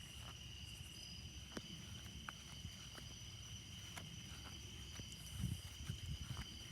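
Steady high-pitched night chorus of crickets, with scattered sharp ticks of raindrops falling around the microphone. A few soft low thuds come about five and a half seconds in.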